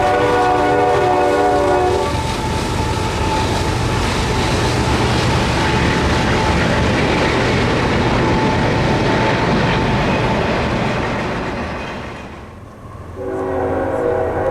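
Diesel locomotive multi-chime air horn sounding a chord for about two seconds, then the loud steady noise of a train passing close by. Near the end the sound dips briefly and a horn chord starts again, lower in pitch.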